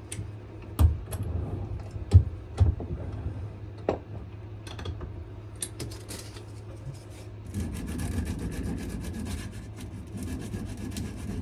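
Sandpaper rubbing back and forth over a wooden knife handle, hand sanding. A few sharp knocks come in the first four seconds, and from about two-thirds of the way in the strokes turn quick and continuous. A steady low hum runs underneath.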